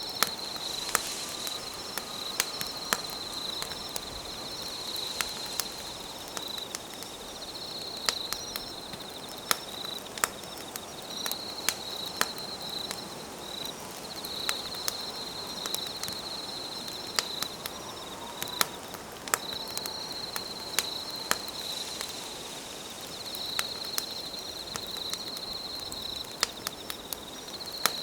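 Campfire crackling, with sharp irregular pops, under insects trilling in high-pitched phrases of a second or two separated by short gaps.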